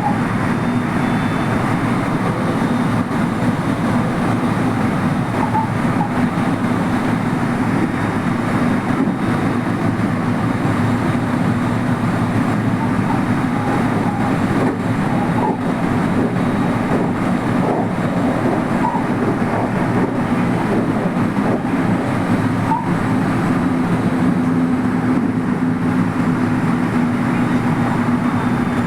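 223 series electric train running at speed, heard from inside the front car: steady rolling noise of wheels on rail with a continuous low hum.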